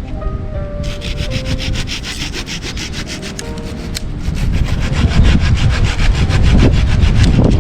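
Hand saw cutting through wood in quick, even back-and-forth strokes, several a second, starting about a second in and stopping near the end.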